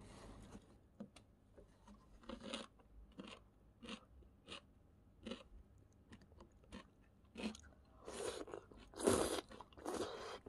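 Close-up chewing: a person eating, with short crisp crunches at irregular intervals and a few longer, louder ones near the end.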